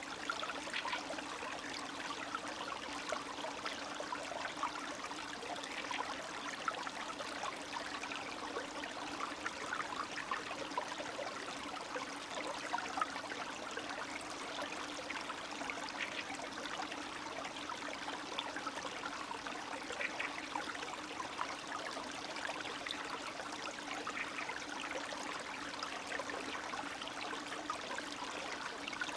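Spring meltwater stream babbling and trickling steadily, with small quick splashes, under a faint low hum.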